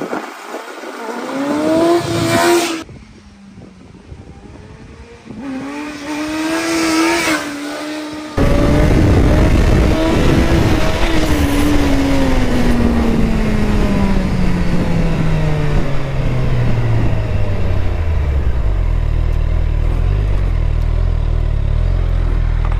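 Suzuki Hayabusa inline-four motorcycle engine revving in two short rises, then running loud under heavy wind noise, its pitch falling slowly over several seconds as the bike slows, ending in a low uneven rumble.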